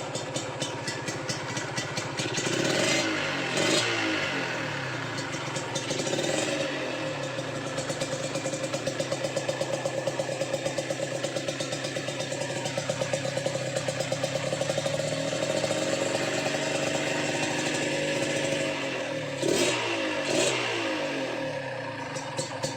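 Honda NSR150SP's single-cylinder two-stroke engine idling through its exhaust, blipped up and back down several times: twice a few seconds in, once about six seconds in, and twice near the end.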